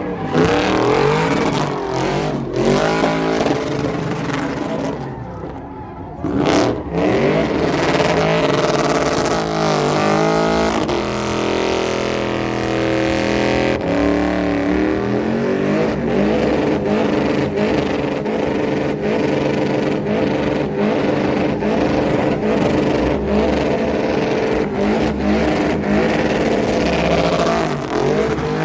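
Car engine revving hard, its pitch sweeping up and down, then held at high revs with regular sharp cracks through the second half.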